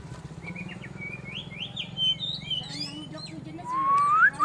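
White-rumped shama singing a varied run of quick whistled chirps and slurred notes, ending with a rising whistle and then a fast string of repeated notes. A steady low hum runs underneath.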